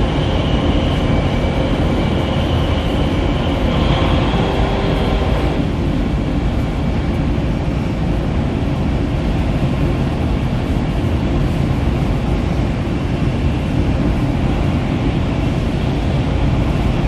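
Inside an E5 series Shinkansen bullet train running at about 270 km/h: a steady, loud rumble and rush of the train at speed, with a faint high whine in roughly the first five seconds.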